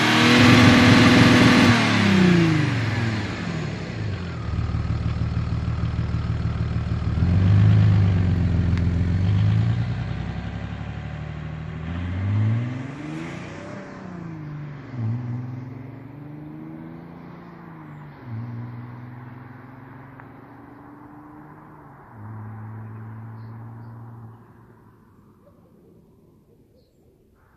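Audi A6 C5 2.5 TDI V6 diesel engine and exhaust revving, then pulling away and accelerating through several gears. The engine note climbs in each gear and drops at each shift, growing fainter as the car goes off into the distance.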